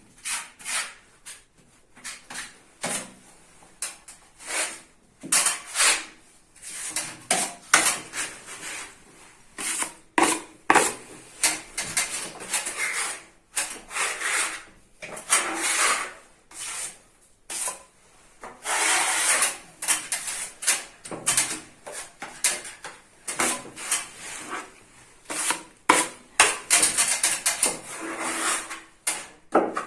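Steel putty knives spreading and scraping wall putty: a long run of short, irregular scraping strokes, with a sharp tap of a blade now and then. This is the first coat being laid on around holes in the wall, not yet levelled.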